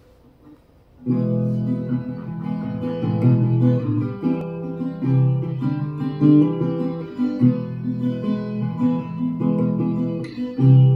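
Acoustic guitar playing a song's introduction, chords strummed and picked in a steady rhythm, starting suddenly about a second in.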